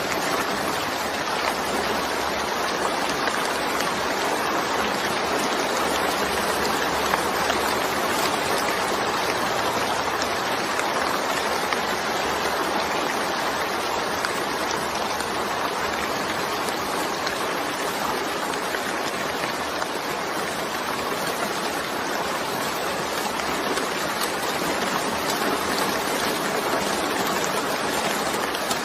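Steady rain: a dense, even hiss of falling water that holds the same level throughout, with no drips or thunder standing out.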